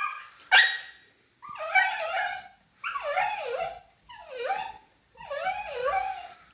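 A pet dog yelping twice in quick succession, then letting out four long, wavering whines one after another, in a fit of excitement at the word "walk".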